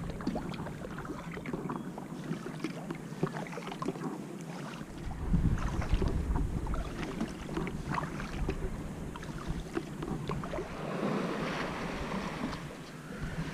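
Water splashing and lapping around a kayak in small, irregular sloshes, with wind gusting on the microphone a few times.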